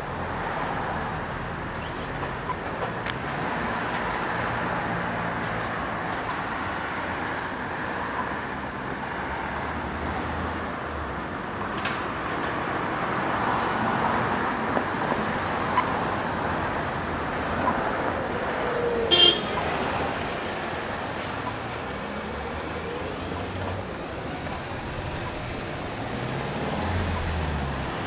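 Road traffic running by on a city street: steady tyre and engine noise from passing cars and buses. About nineteen seconds in there is a brief, sharp, high-pitched toot, the loudest sound in the stretch.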